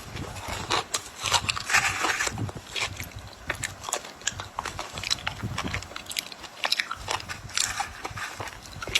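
A person biting and chewing ice close to the microphone: irregular, sharp crunching and crackling as the ice breaks between the teeth.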